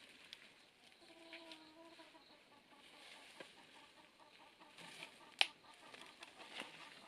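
Chicken clucking faintly, with a drawn-out call about a second in. Scattered light clicks, and one sharp click about five seconds in that is the loudest sound.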